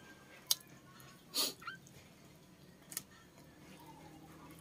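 Close-miked mouth sounds of someone chewing octopus: two sharp mouth clicks, about half a second and three seconds in, and a short louder breathy noise about a second and a half in, over a faint low hum.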